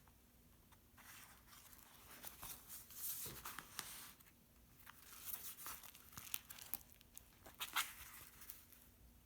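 Acrylic- and gesso-painted paper pages of a handmade folded book rustling and crinkling as they are turned. The rustling comes in a few bouts, with sharp little crackles near the end, over a faint steady hum.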